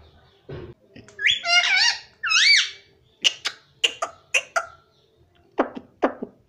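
Pet talking parrot vocalizing: a few loud whistled calls that rise and fall in pitch, then a run of short sharp clicking notes, and a few shorter, lower calls near the end.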